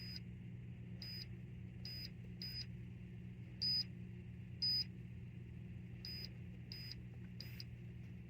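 Nine short, high-pitched electronic beeps spaced irregularly, the two in the middle louder, as the control panel of a Msolok cool-mist humidifier responds to button presses. A steady low hum runs underneath.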